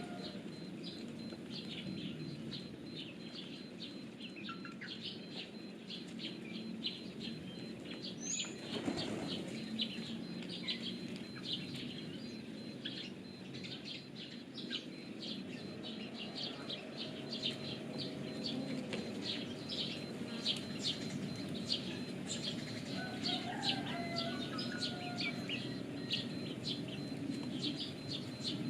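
Pigeons flapping their wings, with high, rapid bird chirping throughout and a louder rush of wing noise about nine seconds in.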